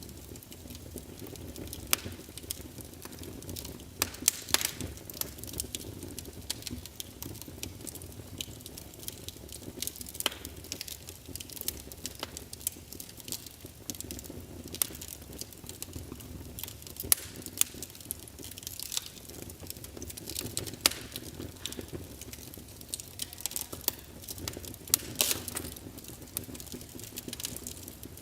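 Fireplace crackling: a steady low rumble of flames with many irregular sharp pops and snaps.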